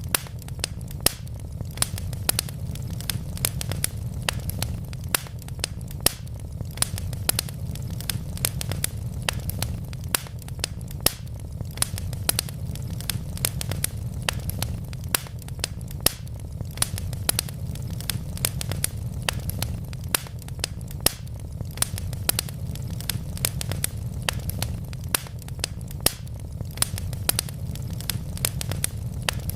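Wood fire burning in a fireplace: a steady low rumble of the flames with dense, irregular crackles and pops from the burning logs, several a second.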